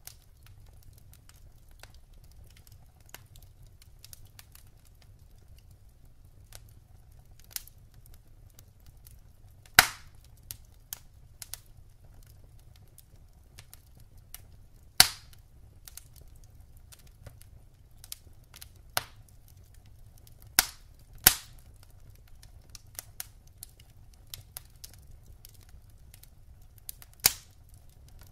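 Wood burning in a fireplace, crackling with scattered sharp pops at irregular intervals over a faint low rumble of the flames; about five pops stand out louder than the rest.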